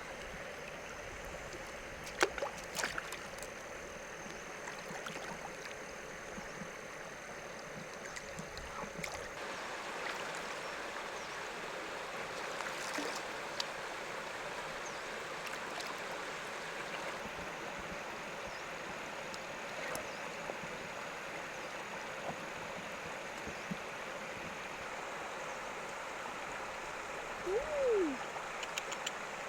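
River water running and gurgling steadily, with scattered small clicks and splashes, and one brief falling squeak near the end.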